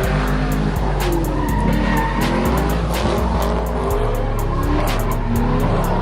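A hip-hop beat with deep bass notes and quick hi-hat ticks over car engines revving and tyres squealing in burnouts.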